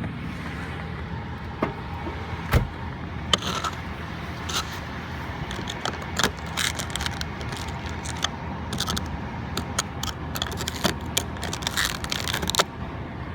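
Cold-started Buick V6 idling steadily, with a run of sharp clicks and scraping knocks over it from about a second and a half in until near the end.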